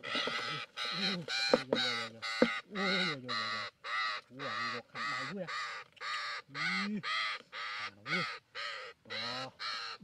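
A bird giving harsh, repeated squawking calls, about two a second, each rising and then falling in pitch. The calls are typical of a bird held in a trap or by hand. About one and a half and two and a half seconds in there are two sharp knocks.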